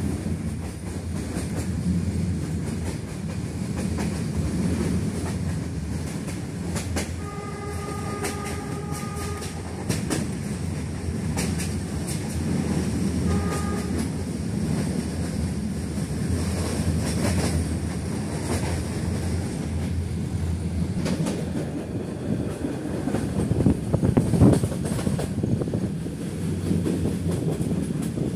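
Metre-gauge passenger train running at speed, heard from inside a coach: a steady rumble with wheels clattering over the rail joints. The YDM4 diesel locomotive's horn sounds one long blast about seven seconds in and a short one about thirteen seconds in.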